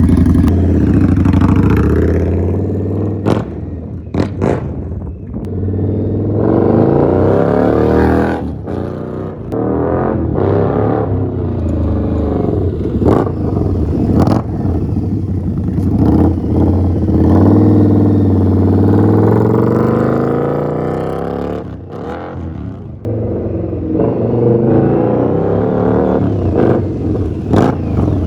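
2021 Indian Scout Bobber's V-twin running through a Freedom Pitch Black 2-into-1 aftermarket exhaust, revving and accelerating, its pitch rising and falling again and again, with a few sharp cracks along the way.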